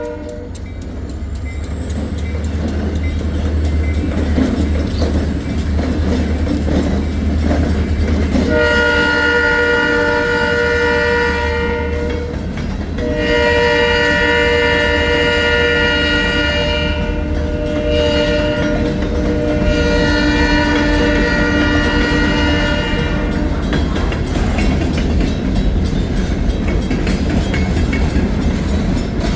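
Freight train diesel locomotive rumbling past as the train horn sounds a long blast, then a longer sounding of several seconds that ends a little over halfway through. The train's rolling noise carries on after it.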